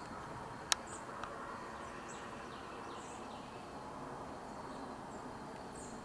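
Faint, scattered high chirps of birds over a steady outdoor hiss, with one sharp click about three-quarters of a second in.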